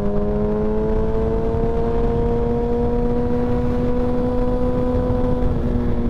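Sport motorcycle engine pulling under throttle at speed, its pitch climbing steadily for about five seconds and dropping slightly near the end, over a steady rush of wind.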